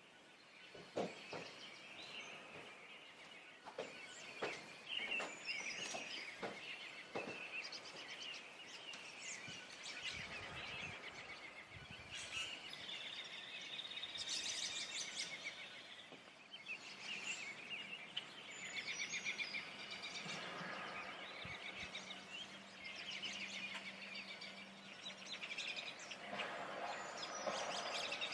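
Spring chorus of several wild songbirds singing and calling over one another, with overlapping trills and short phrases. A few sharp clicks sound in the first several seconds.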